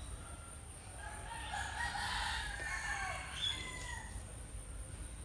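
A rooster crowing: one long call from about a second in to about three seconds, with a shorter call just after.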